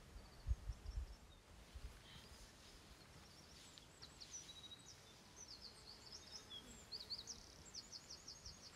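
Faint birdsong: short high chirps and trills from about four seconds in, ending in a quick run of about eight notes. A few low thumps on the microphone come near the start.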